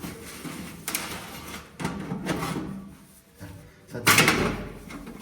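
Knocks and scraping as a part is pushed into place, with one loud, harsh scrape about four seconds in.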